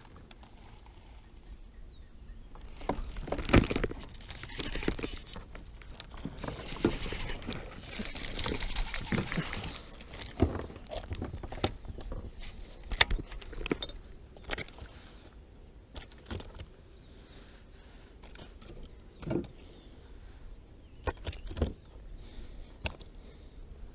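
Irregular knocks, clicks and rattles of fishing gear and a plastic kayak hull being handled, with a stretch of splashing or rustling in the first half, while a fish is landed on a kayak.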